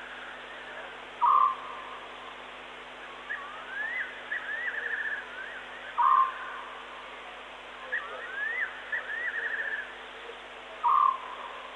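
Birds calling in the bush: a short loud call three times, about five seconds apart, with a quieter run of rising whistles and fast trills between them, over a steady hiss.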